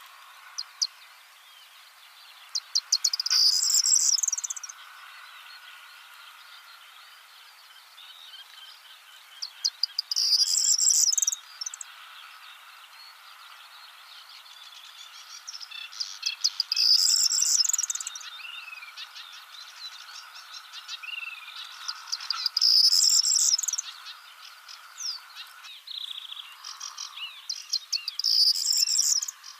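A small songbird, said to resemble the Javan bush lark, sings a short song five times about every six seconds. Each song is a run of rapid ticks ending in a high buzzy phrase. Under it runs a steady insect drone that stops near the end.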